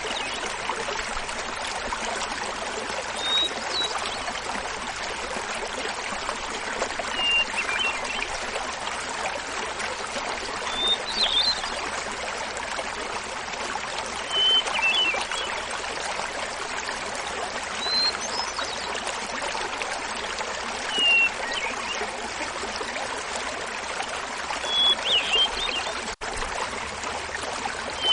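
Hermit thrush singing, about one phrase every three to four seconds, each a short held note followed by a fluttery flourish. Under it is the steady rush of a small mountain waterfall.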